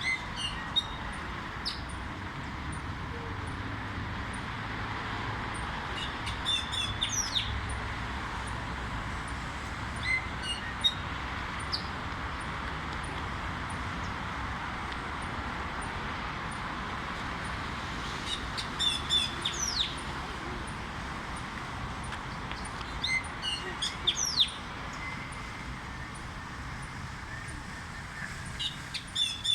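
A songbird calling in about five short clusters of high notes that fall sharply in pitch, spaced several seconds apart, over steady background noise.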